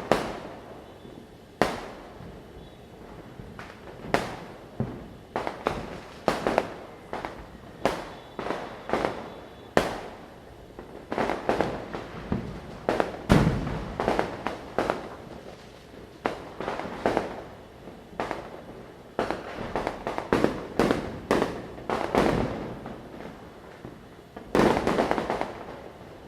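Firecrackers going off one after another at irregular intervals, sharp bangs of varying loudness with short echoes, thickest in the middle stretch, with a longer, louder burst near the end.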